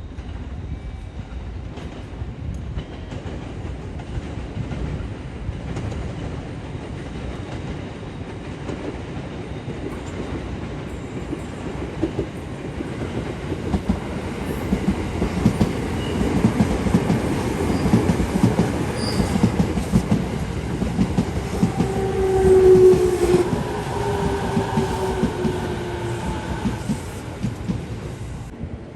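Train running through a station, its wheels clattering over the rail joints, growing louder toward the middle. Near the end a tone sounds for several seconds, slowly falling in pitch.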